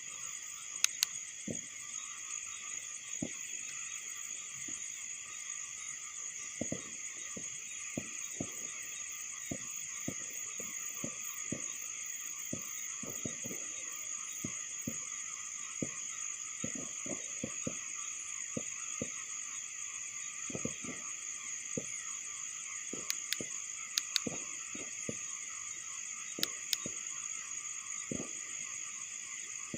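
A steady night chorus of crickets chirring, in several high, unbroken bands, with many faint irregular low pops scattered through it.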